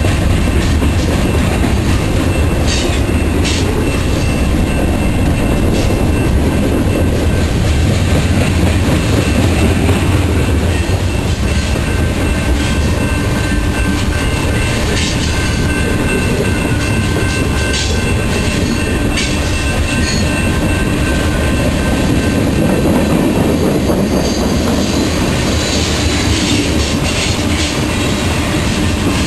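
Freight train cars rolling past: a steady loud rumble of steel wheels on rail, with scattered clacks as wheels cross rail joints and a thin, steady high squeal above.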